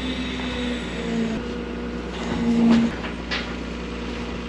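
An engine running steadily with a low hum that swells briefly about halfway through, followed by a couple of faint clicks.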